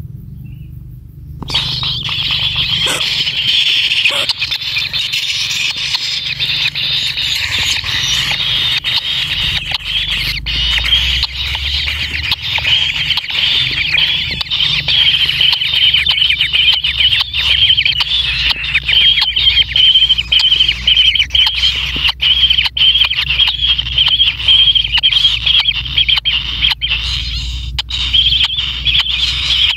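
Kingfisher nestlings giving a continuous, high, buzzy begging call, with frequent sharp clicks over it.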